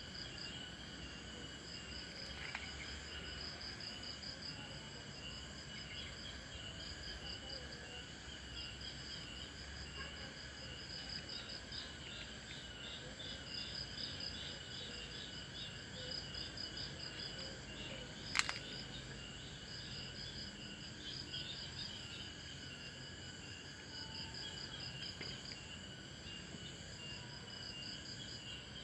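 Insects chirping steadily in rapid, evenly repeated high pulses, several callers overlapping. A single sharp click about eighteen seconds in.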